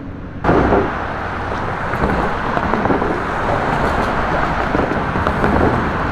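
Steady road traffic noise from cars on a busy highway, starting abruptly about half a second in.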